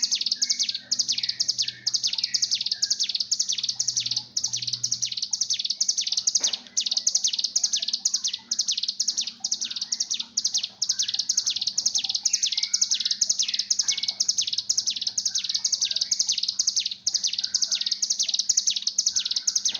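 Ciblek gunung (a mountain prinia) giving its rapid buzzy 'bren' chatter, a short high trill repeated steadily about twice a second: the excited call of a bird in breeding condition. A faint steady hum sits underneath.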